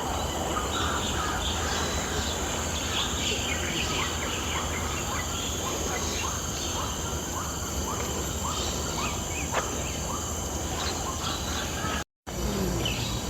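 Many birds chirping and calling in rapid, repeated short notes over a steady high hum and a low background rumble. The sound cuts out for a moment near the end.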